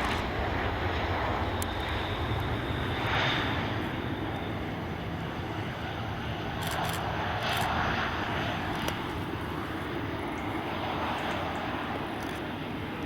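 Jet aircraft engine noise from a passing airliner: a steady rush that slowly fades.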